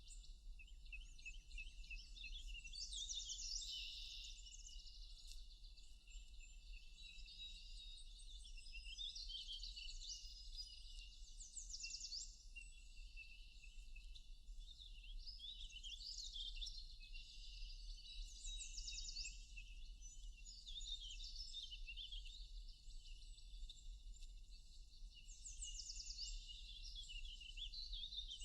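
Several songbirds singing at once in a forest dawn-chorus style: high chirps and rapid trills overlapping, in bouts every few seconds, fairly faint.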